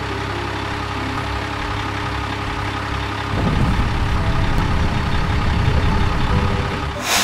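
Heavy truck engine idling steadily, then running harder and louder from about three and a half seconds in.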